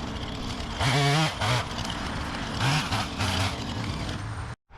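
An engine running steadily at a low rumble, with a few short pitched cries over it about a second in and again around three seconds; the sound cuts off suddenly just before the end.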